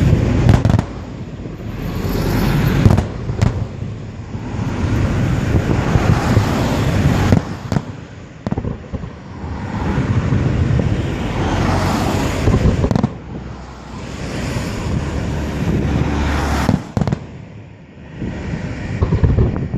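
Aerial fireworks display going off: swells of dense crackling and popping with several sharp, loud bangs spread through it.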